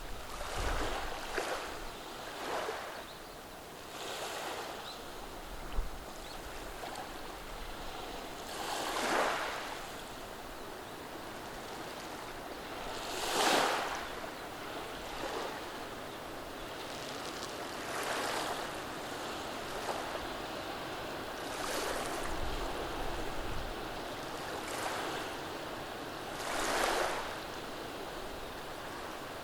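Small, gentle waves washing over and draining back through a beach of rounded pebbles. The sound swells with each wave every few seconds. The waves about 9, 13 and 27 seconds in are the loudest.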